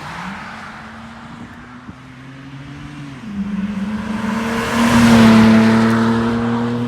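BMW 328i with its muffler deleted driving past, the exhaust note stepping down in pitch about three seconds in, then swelling to its loudest as the car passes and fading away.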